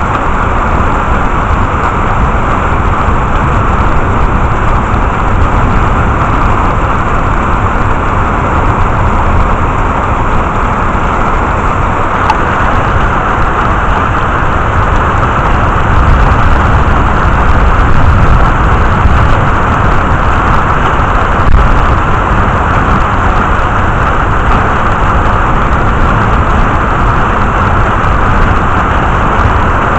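Heavy rain from a thunderstorm falling steadily: a loud, even, dense hiss of rainfall.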